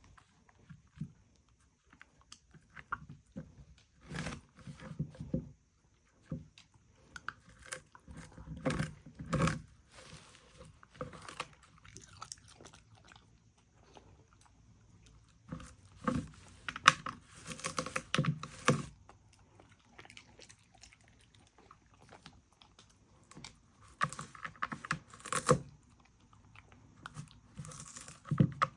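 A dog chewing and crunching food, in irregular bouts of crunches separated by short pauses.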